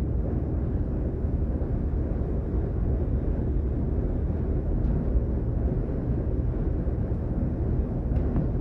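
Class 422 electric multiple unit heard from inside, running between stations: a steady low rumble of wheels and running gear on the track, with a couple of faint ticks near the end.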